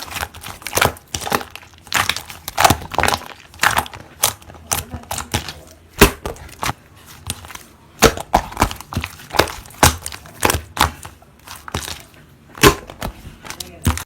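Slime being squished and pressed by hand, making irregular sharp pops and crackles.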